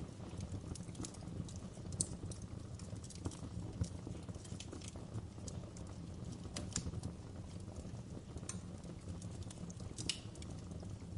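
Wood fire crackling in a fireplace: a steady low rumble of flames with irregular sharp pops and snaps of burning logs.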